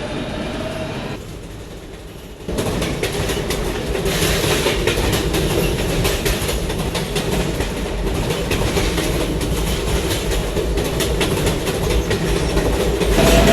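New York subway train running between stations, heard from aboard: steady wheel and track noise with rapid clicks over the rail joints. The noise drops briefly, then comes back louder about two and a half seconds in; a steady motor whine is heard at the start and again near the end.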